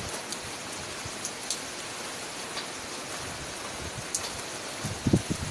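Rain falling with a steady hiss and a few sharp drip ticks. About five seconds in, a run of louder dull thuds begins.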